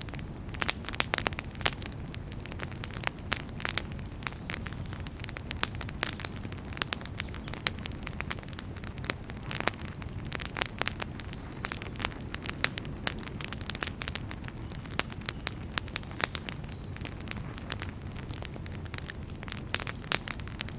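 Wood fire crackling: irregular sharp pops and snaps of burning logs over a steady low rumble of flame.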